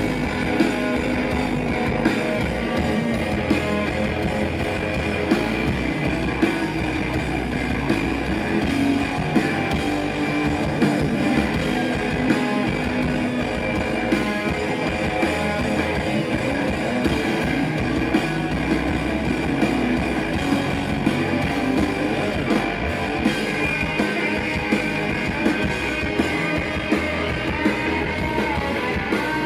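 Live rock band playing a loud instrumental passage: electric guitars strummed over a drum kit keeping a steady beat.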